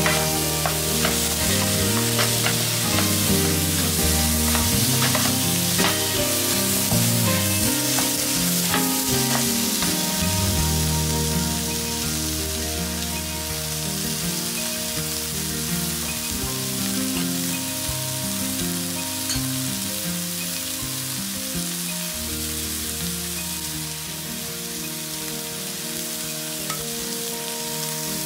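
Scrambled eggs and tomato chunks sizzling in a nonstick wok, with a wooden spatula stirring and clicking against the pan; the clicks come mostly in the first ten seconds or so.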